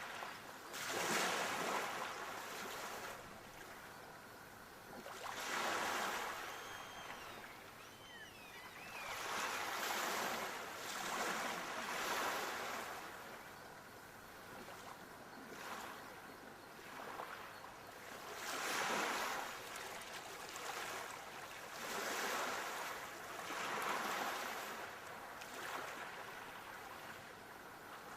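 Sea waves breaking and washing in, swelling and fading every few seconds, with faint high whistling notes about seven to nine seconds in.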